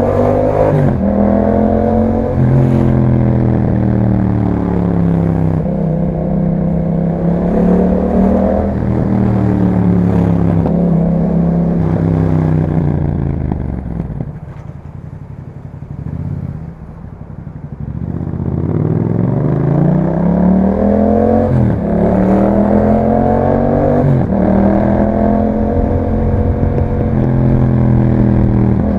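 Yamaha MT-07's 689 cc parallel-twin engine through an Akrapovic exhaust, accelerating up through the gears with the pitch stepping down at each upshift. The revs then fall away as it slows to a quieter low point about halfway through, before it pulls hard again through several more upshifts.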